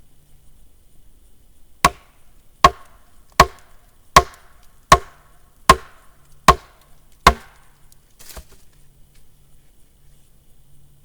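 An axe being struck to seat and tighten its loose head on the handle: eight sharp, evenly spaced knocks, each with a brief ring, then a faint last tap.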